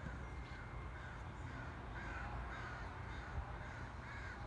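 A bird calling over and over, short calls repeated two or three times a second and louder in the last second, over a steady low rumble.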